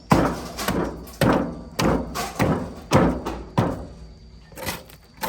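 A series of heavy knocks, about nine in all, irregularly spaced roughly half a second apart, each ringing briefly after the strike.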